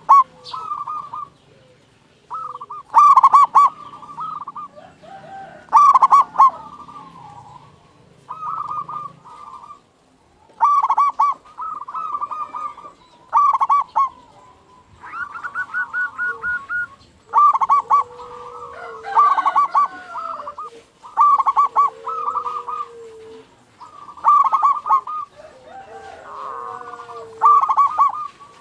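Zebra dove (local perkutut) singing persistently. It gives short phrases of rapid, rolling coos that repeat every two to three seconds. Softer, lower gliding calls come between the phrases in the second half.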